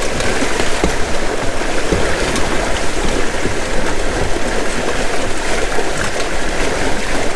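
Steady rush and gurgle of water streaming along the hulls of a Windrider 17 trimaran under sail.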